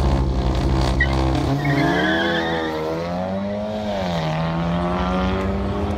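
Audi Q3 and VW Golf 7R launching side by side in a drag race. The engines hold steady revs at first, then rise in pitch as the cars accelerate away, drop briefly at a gear change about halfway through, and rise again.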